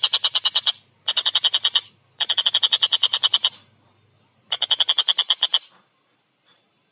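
Collared kingfisher (tengkek buto) giving its rapid, harsh 'kek-kek-kek' cackle in four bursts of about ten notes a second, falling silent for the last second or so.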